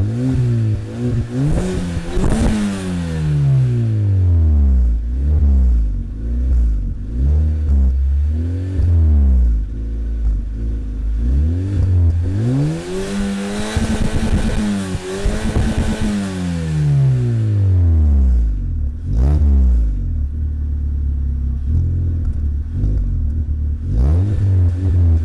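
Citroen C3 1.6-litre four-cylinder engine with an Ulter aftermarket sport exhaust, revved up and let fall back to idle again and again. Most revs are short blips; one about halfway is held high for a few seconds before dropping. Near the end it idles steadily for a few seconds before revving again.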